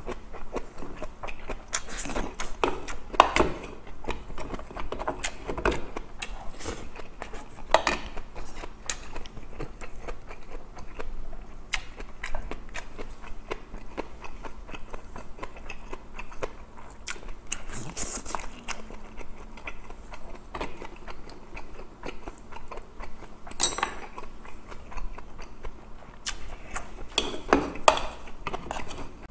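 Close-miked eating: irregular chewing and biting sounds from someone eating grilled fish and kimchi, with scattered sharp clicks of chopsticks against the dishes.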